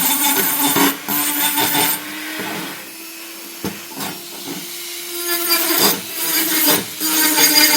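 A small handheld power tool runs with a steady whine, scraping and grinding at a metal workpiece. About two seconds in it eases off the work and its pitch creeps up. There is a sharp knock partway through, and near the end it bites back in loudly.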